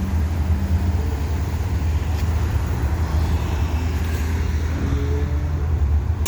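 Motor vehicle engine running close by, a steady low rumble, with street traffic noise around it.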